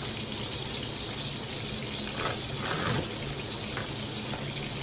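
Steady hiss of cooking on the stovetop, with a low hum beneath it and a couple of brief knocks of kitchen handling about two to three seconds in.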